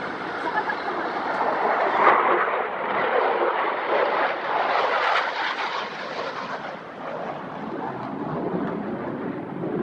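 Airplane flying past: a loud engine rush that swells to peaks about two and five seconds in, then fades.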